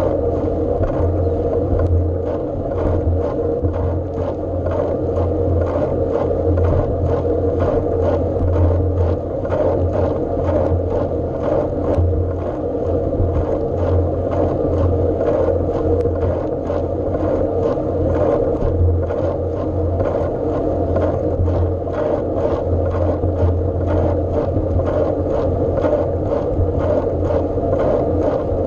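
Steady riding noise from a bike on the move: a constant low hum with rapid small rattling clicks throughout.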